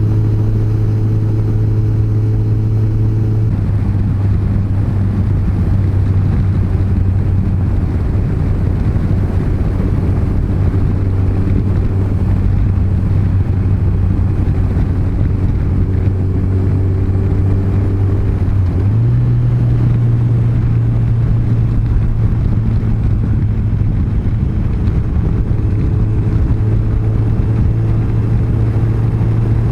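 Yamaha FJR1300's inline-four engine running steadily under way, with wind and road rush; the engine hum steps up to a higher pitch about two-thirds of the way through.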